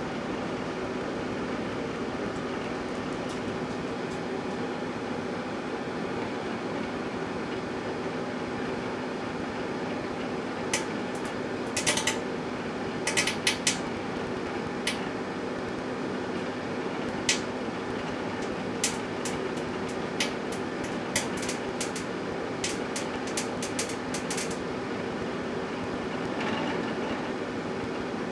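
Microwave oven running with a steady hum, and from about ten seconds in a string of sharp, irregular snapping clicks, some in quick clusters: an empty Pringles can sparking inside the oven.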